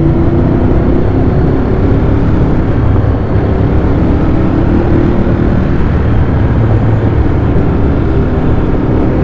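Ducati Monster 821's L-twin engine running steadily at high road speed, its note holding an even pitch, heard under a heavy rush of wind noise.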